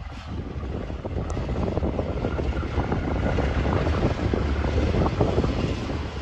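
Train rumbling on the line, a steady low rumble that grows louder over the first few seconds.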